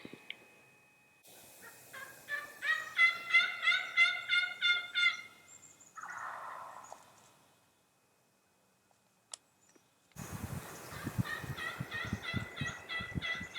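Wild turkeys calling: a rapid series of about ten pitched, repeated notes, then a few seconds later a second series over low thumps and rustling.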